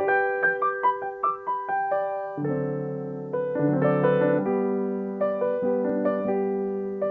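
Solo piano playing: a quick run of single treble notes, then low sustained chords come in under the melody about two and a half seconds in.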